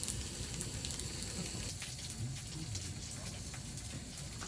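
Food sizzling in a hot pan, a steady sizzle with scattered small crackles.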